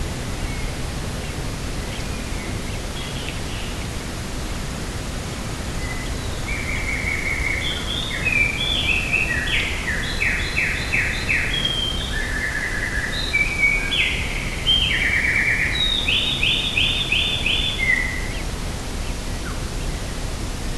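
A small songbird singing a long, varied song of trills and quickly repeated notes, from about six seconds in until about eighteen, over a steady rushing of wind.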